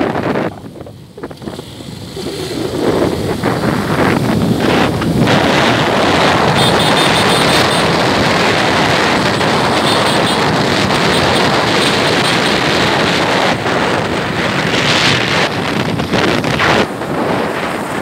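Wind rushing over the microphone of a moving motorcycle, with road noise. It drops away briefly about a second in, then comes back steady.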